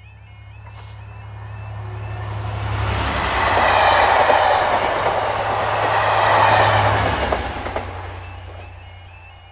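A Class 67 diesel locomotive hauling a Network Rail test train passes at speed. First the engine's low, steady drone, then the rushing wheel and rail noise of the coaches, which swells to a peak a few seconds in and fades away as the train recedes.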